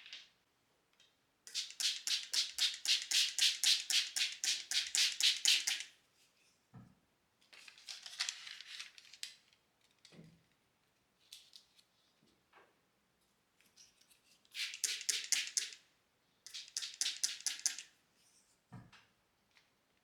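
Rapid back-and-forth scratching strokes, about five a second, in three runs: a long one of about four seconds, then two shorter ones near the end. A few soft low knocks fall between them.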